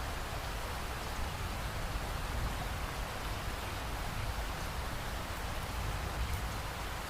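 Steady rain falling, with a continuous low rumble underneath and no distinct thunderclap.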